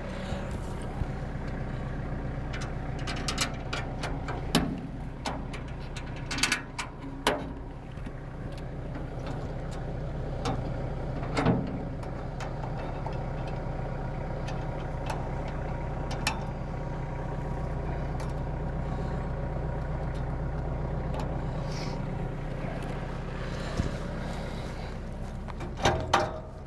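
Tractor engine idling steadily, with a few sharp metallic clanks and knocks at intervals through it.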